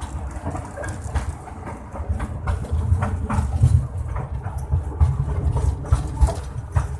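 Train running on rails: a steady low rumble with irregular clicks and clacks from the wheels.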